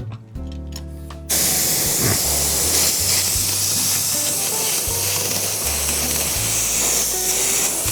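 Spray adhesive hissing out in a steady, even spray onto the seat foam, starting suddenly about a second in.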